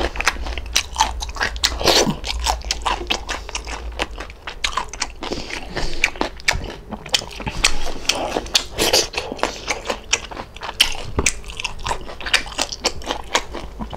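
Close-miked chewing and biting of crispy fried pork belly (lechon kawali), many sharp crunches coming in quick, irregular succession.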